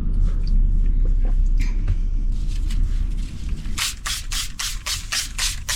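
Bubble wrap being worked onto a car's sunroof from inside, over a low rumble. Near the end comes a quick run of rubbing strokes, about four a second, which stops abruptly.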